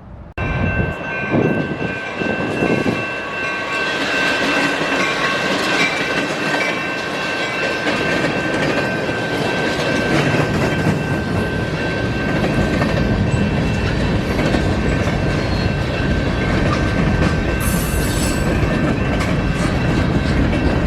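A train rolling past with wheels clattering over the rail joints, joined by a steady high-pitched ringing whine. It starts suddenly about half a second in.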